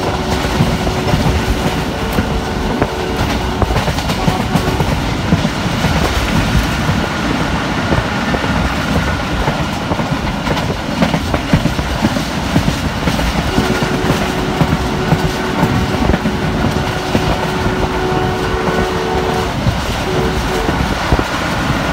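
Passenger train running at speed behind a ZCU20 diesel-electric locomotive, heard from a coach: steady rumble with wheels clattering over the rail joints. A two-tone horn sounds in a held blast at the start, again for about six seconds midway, and in a few short toots a little before the end.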